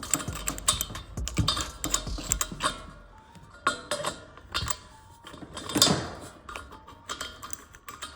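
Irregular clicks and clanks of metal fittings being handled as a gas hose is fitted and screwed onto a portable gas heater.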